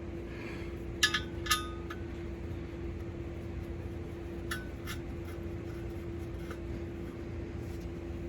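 Light metal-on-metal clinks from parts being handled during work on the engine-to-transaxle join: a pair about a second in and another pair near the middle, over a steady background hum.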